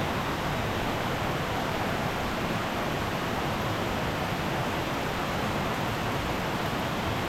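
Steady, even rushing of water from a rain-swollen, flooding valley stream under heavy rain.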